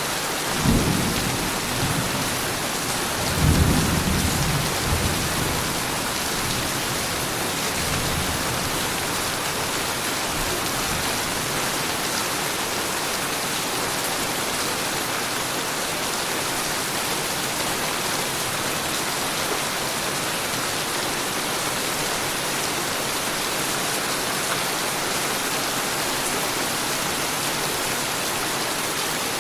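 Heavy rain falling steadily with thunder: two low rolls of thunder in the first five seconds, the second the louder, then steady rain.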